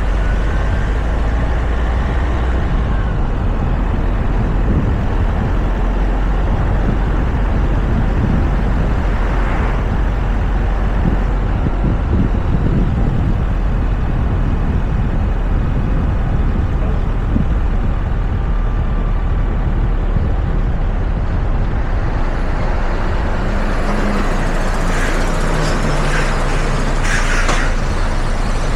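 Steady wind rush and tyre noise from a Toyota RAV4 driving, heard through a roof-mounted camera's microphone, with heavy low rumble from the wind on the mic. A few short, sharper sounds come near the end.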